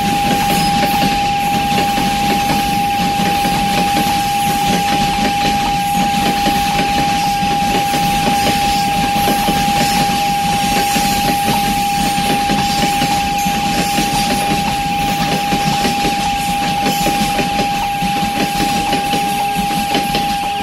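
A freight train of open gondola wagons rolls past close by, with a steady rumble and the clatter of wheels on the rails, easing slightly near the end as the last wagons go by. A steady high-pitched tone sounds over it.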